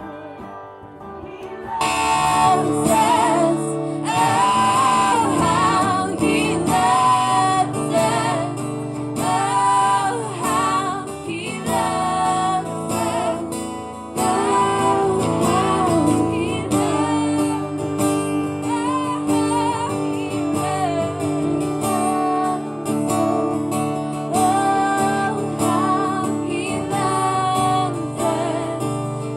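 A worship song sung to guitar accompaniment; after a quieter first two seconds the singing and guitar come in fully and carry on.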